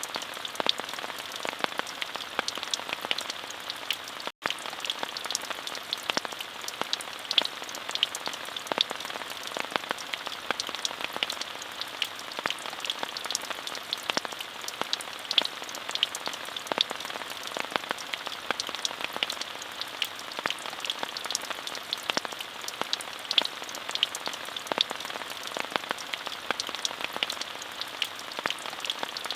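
Steady rain falling, with many distinct individual drop hits over an even hiss. The sound cuts out completely for a split second about four seconds in, then carries on unchanged.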